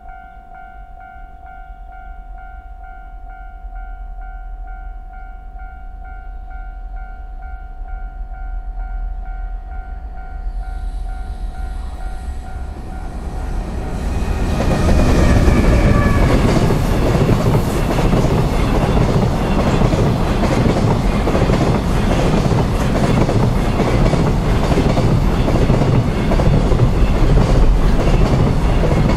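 A level-crossing warning bell rings steadily with a repeating electronic tone while a JR Freight EH500 electric locomotive and its container freight train draw near, the rumble growing louder. About 14 seconds in, the train reaches the crossing and passes, with loud wheel and rail noise and wheels clattering over the rail joints that drown out the bell.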